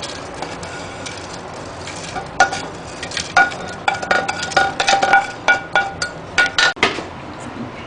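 A spoon stirring and clinking against a hard container. From about two seconds in come many short, irregular clinks that ring at the same couple of pitches.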